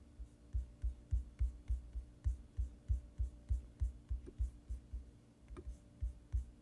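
A computer key tapped over and over, about three times a second, then a few slower taps near the end: the up arrow key pressed repeatedly to step a model's scale up in the slicer.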